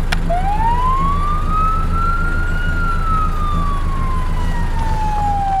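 Fire engine siren wailing: after a sharp click, the pitch rises slowly for about two and a half seconds, falls more slowly, and starts to rise again near the end. A steady low rumble runs underneath.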